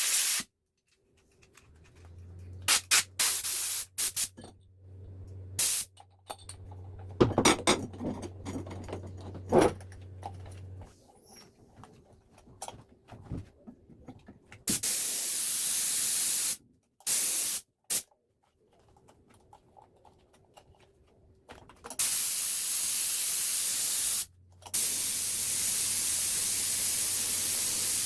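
Compressed air hissing out in several bursts, the longest over the last few seconds, from a homemade air compressor built from a refrigerator compressor. The compressor's motor hums low in the first part and again near the end, with scattered clicks and knocks early on.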